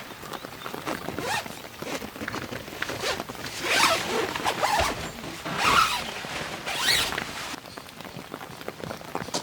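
A zipper pulled in several short strokes, the strongest about four, six and seven seconds in.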